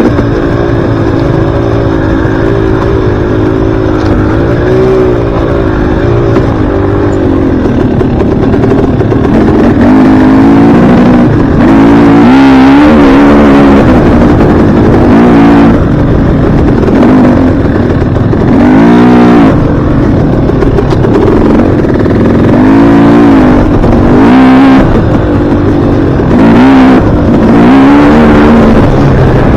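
Dirt bike engine ridden hard, its pitch climbing and dropping over and over as the throttle is worked, every second or two. It gets louder after about a third of the way in.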